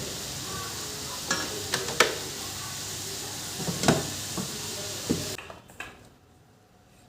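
Food sizzling in a pan while a metal spatula stirs it, with several sharp clinks and scrapes against the pan. The sizzle stops suddenly a little past five seconds in.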